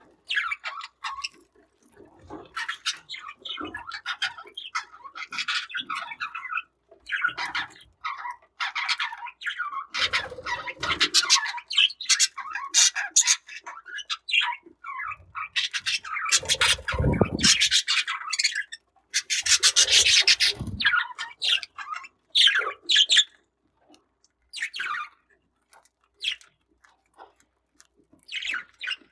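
Budgerigars chirping and squawking in short, irregular calls, mixed with rubbing and scraping noises, louder for a few moments around the middle.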